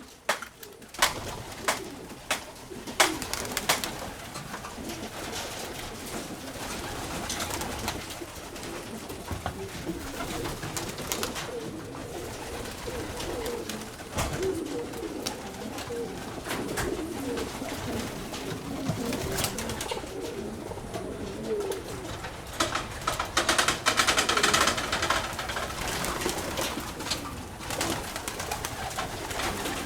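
Pigeons cooing in a loft, with scattered clicks and scuffs as the birds come down to feed, and a louder burst of rustling near the end.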